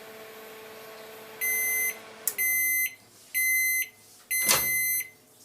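Inverter microwave oven running with a steady hum that winds down in pitch after about two seconds as the cycle ends. Its beeper sounds four times, about a second apart, with two sharp clicks, the second louder.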